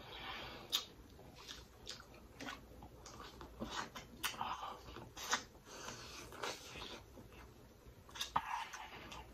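Close-miked eating of corn on the cob: chewing and biting into the cob, with wet mouth sounds and several sharp clicks spread through.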